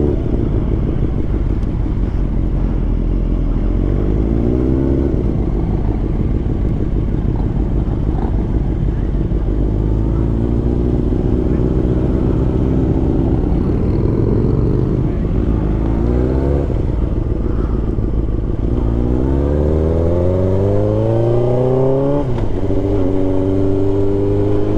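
Motorcycle engine under way, its pitch climbing as it accelerates and dropping sharply at an upshift near the end, with wind noise rushing underneath.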